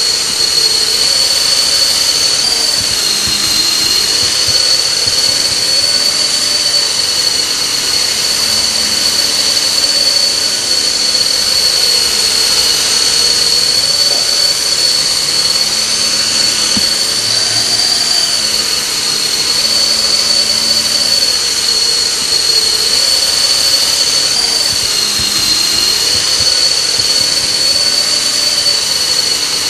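Radio-controlled model helicopter in flight: a loud, steady high-pitched whine under a lower wavering drone. The pitch dips briefly about three seconds in and again near the end, as the rotor speed changes.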